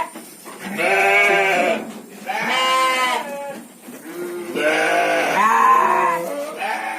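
Garut sheep bleating loudly, about four long bleats one after another, each lasting about a second.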